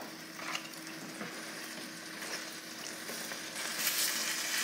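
Breaded chicken, sauce and mozzarella sizzling in an electric skillet as sauce is spooned over it, a steady hiss that grows louder about three and a half seconds in.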